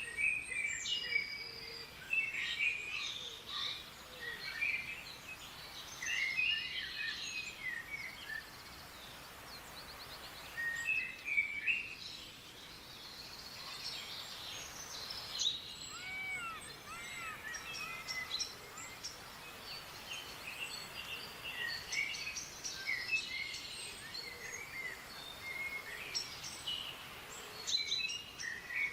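Several small songbirds chirping and twittering in short, overlapping bursts of high notes and quick trills, over a faint steady background hiss.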